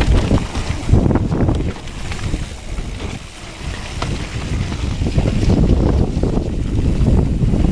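Wind rushing over the microphone and tyre rumble from a hardtail 29er mountain bike riding a dirt trail, with scattered rattles and knocks from the bike. It eases off for a moment about three seconds in, then builds again.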